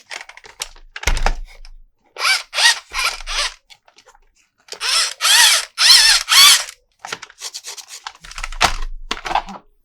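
Plastic toy parts being handled and worked: ratcheting, rasping and whirring bursts, with a sharp plastic knock about a second in and again near the end.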